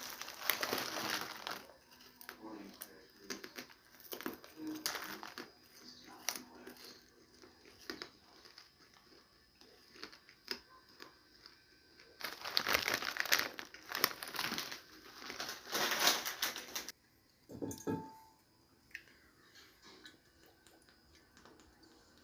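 Rustling, crinkling handling noise in irregular bursts, loudest about a second in and again over a few seconds past the middle, before it cuts off suddenly.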